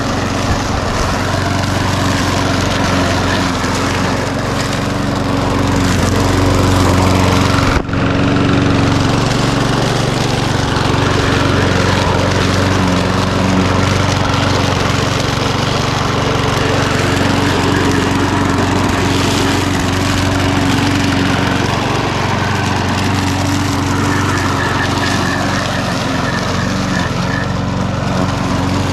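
Walk-behind lawn mower's small engine running steadily, with one momentary break about eight seconds in.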